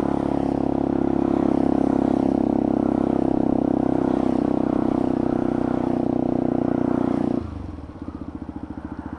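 Motorcycle engine with a loud exhaust running at a steady note. About seven seconds in the throttle closes and it drops abruptly to a quieter, pulsing beat. The exhaust is noisy enough that the rider plans to replace it.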